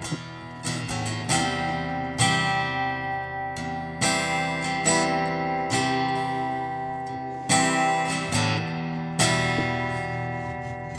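Background music: acoustic guitar strummed chords that ring out between strums.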